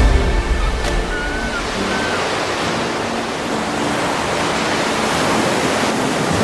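Steady rushing water noise under soft background music with a few held notes.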